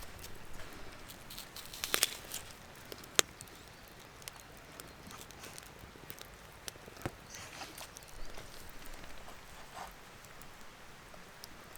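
Scattered crackles, snaps and rustles of twigs and forest litter being handled or stepped on, with a quick cluster of sharp snaps about two seconds in and a single loud snap about a second later, then quieter rustling.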